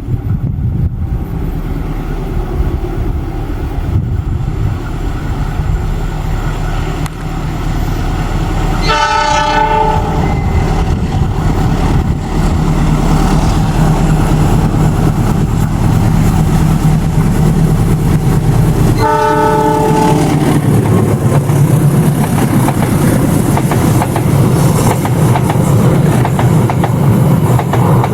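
Diesel locomotive hauling a train, its engine rumbling as it comes on; it sounds its horn twice, about ten seconds apart, each blast about a second long. The wheels clatter over the rail joints, growing louder through the second half as the train passes.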